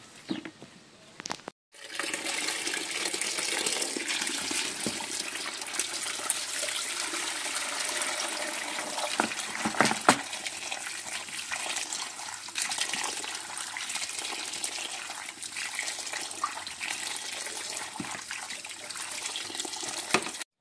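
Water running steadily, as from a tap or hose, starting suddenly about two seconds in and cutting off near the end, with a few light knocks over it.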